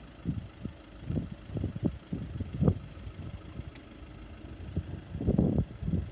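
Wind buffeting the microphone in irregular low gusts and thumps, heavier near the end, over a low outdoor rumble.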